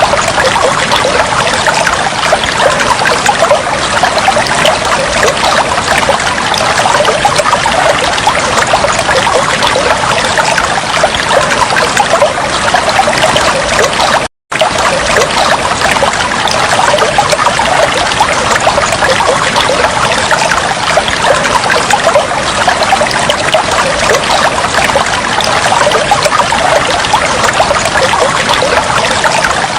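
Water trickling and flowing steadily, a dense patter of small splashes. It cuts out completely for a split second about halfway through.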